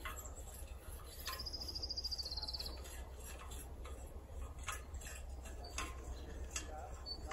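A songbird sings one high trilled note lasting about a second and a half, starting about a second in. Scattered faint clicks sound over a low steady rumble.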